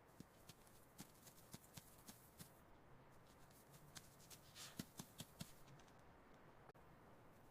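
Faint, irregular scratching and ticking, a scattered run of small clicks with a slightly longer scratch a little past halfway.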